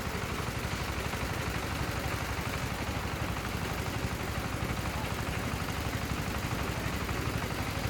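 A small engine running steadily, with a fast, even pulsing and no change in speed.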